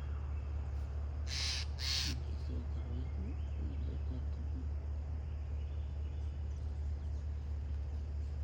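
A bird gives two short, harsh calls in quick succession, about a second and a half in. A steady low rumble runs underneath.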